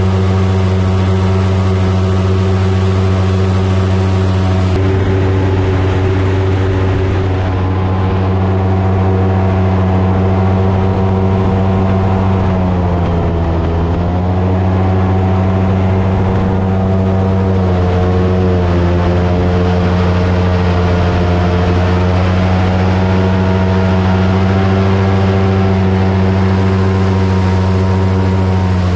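Airboat's engine and propeller running steadily at speed, easing off briefly in pitch about halfway through and then picking back up.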